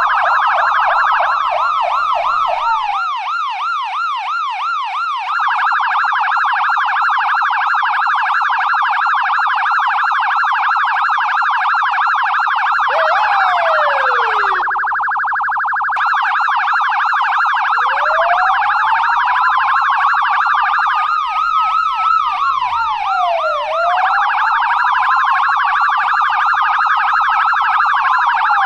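US police car electronic siren in the fast yelp, sweeping rapidly up and down. A slower wail rises and falls over it in the second half, and a short falling sweep comes about halfway through.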